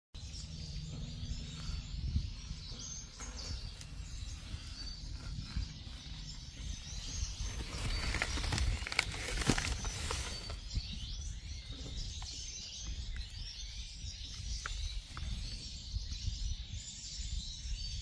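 Small birds chirping in short, high calls scattered throughout, over a low background rumble. About eight to ten seconds in, rustling and rattling as mixed birdseed is scooped from a paper sack into a bowl.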